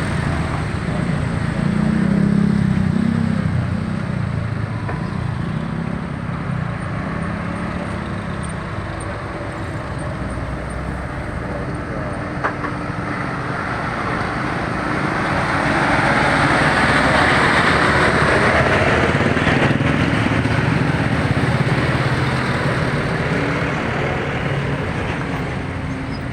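Heavy trucks' engines running as they pass on a road, a steady rumble and tyre noise that swells loudest about two-thirds of the way through.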